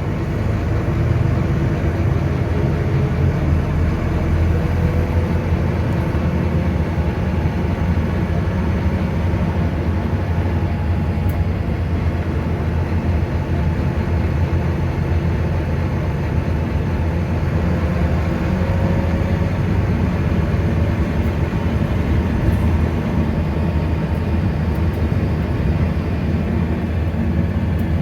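Volvo B9TL bus's diesel engine running with a steady low drone, and a fainter whine that slides in pitch a couple of times; this is the strange sound the owner wants heard from the engine.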